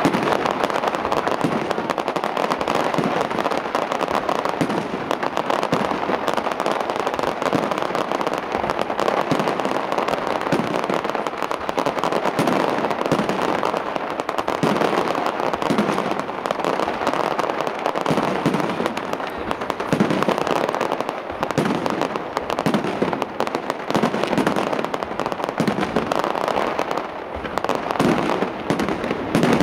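Aerial fireworks display: many shells bursting in quick succession, a dense, continuous run of bangs with no pause.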